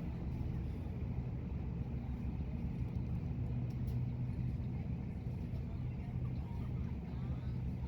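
An engine running steadily with an even low hum, without revving.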